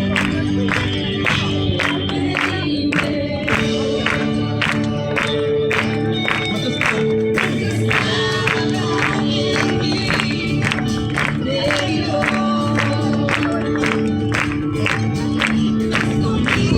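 Many voices singing a Christian song together over music with a steady beat of about two strikes a second.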